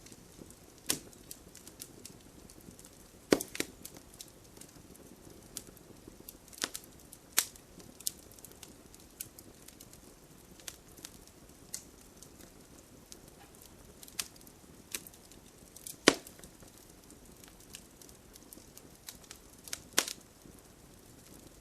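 Wood campfire crackling: irregular sharp pops and snaps over a soft hiss, with a few louder snaps about three seconds in, about two-thirds of the way through, and near the end.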